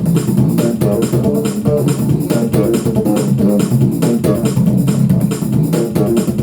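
Bass guitar playing a steady stream of quick plucked notes.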